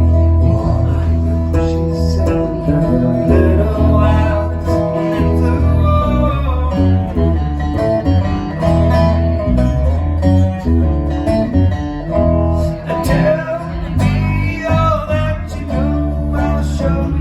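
A band playing guitar-led music, with plucked guitar notes over a steady bass line.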